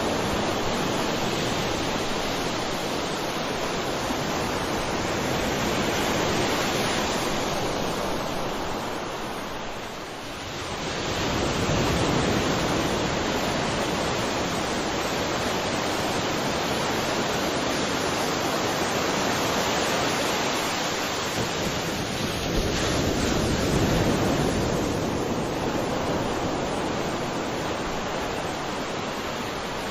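Sea waves washing onto a shore: a continuous rushing surf that swells and eases slowly, dropping briefly about ten seconds in before the next wave builds.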